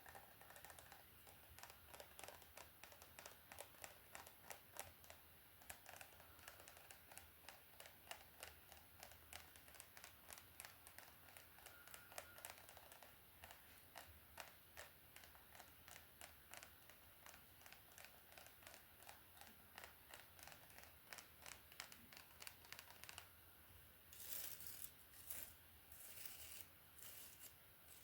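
Faint, close-miked hair brushing: bristles dragged through hair in quick repeated strokes, each giving a short crackling tick, with a few longer, louder swishes near the end.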